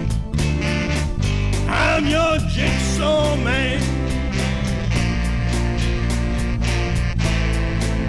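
Instrumental passage of a rock song: a band with drums keeping a steady beat, bass and guitars, and a bending lead melody about two seconds in.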